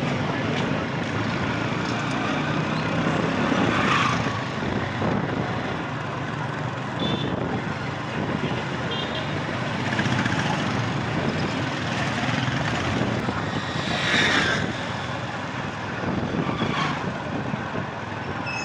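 Motorbike ride: the engine runs steadily under loud rushing wind noise, with a few short high chirps in the middle.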